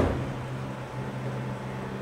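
Seibu 2000-series electric train car with a steady low electrical hum from its onboard equipment, holding one even pitch, with no rolling or motor noise.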